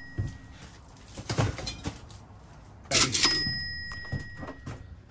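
Cash register "ka-ching" sound effect about three seconds in: a sharp hit followed by a bell ring that fades out. About a second in there is a shorter burst of cardboard boxes being shifted and rustled.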